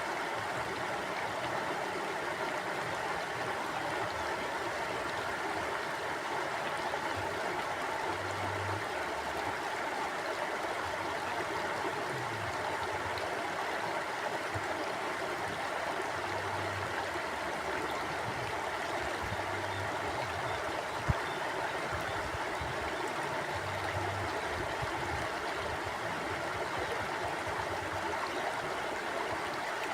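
Forest mountain stream flowing steadily, a continuous rush of water. A single brief click sounds about two-thirds of the way through.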